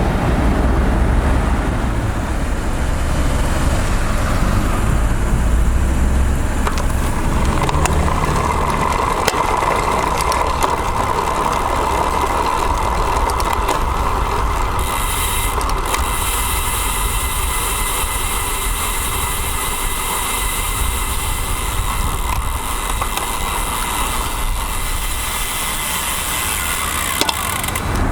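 Road traffic and wind on the microphone of a bicycle-mounted action camera riding along city streets. A steady hum joins in about a third of the way through and stops shortly before the end, with a higher whine on top of it for the second half.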